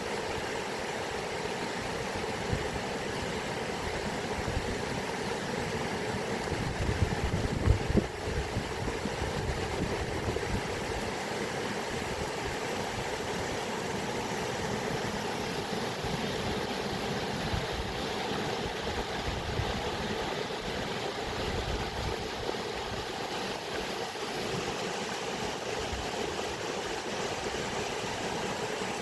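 Running water making a steady, even rushing noise, with a brief louder low rumble about seven to eight seconds in.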